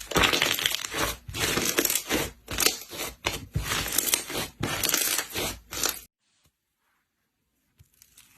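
Slime being squeezed and pressed by hand, giving a dense run of clicks and pops that stops abruptly about six seconds in.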